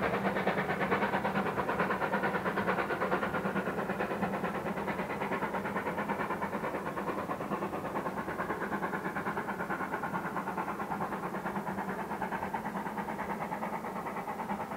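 Passing train heading away along the line, its running sound fading gradually, with a steady low hum and a fast, even pulsing underneath.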